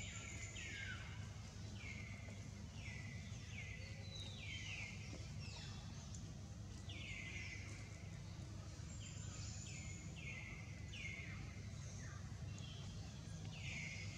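Forest ambience: a bird repeats short, high calls that fall in pitch, roughly one a second with gaps, over a steady low rumble.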